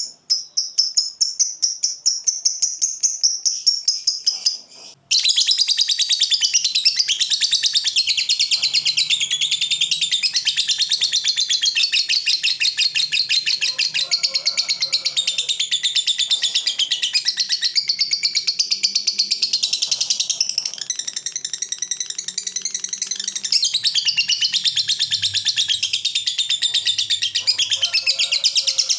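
Lovebird giving a long 'ngekek', the drawn-out chattering trill that lovebird keepers prize: a quick run of high chirps for the first five seconds, then a dense, unbroken rapid chatter for the rest.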